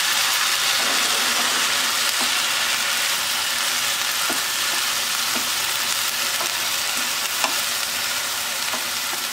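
Chopped okra and spiced yogurt sizzling in a frying pan as they are stirred together with a spatula: a steady frying hiss with a few faint taps of the spatula against the pan.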